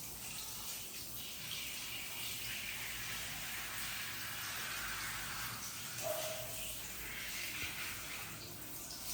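Water running from a tap or shower during a bath, a steady hiss, with a brief tone about six seconds in.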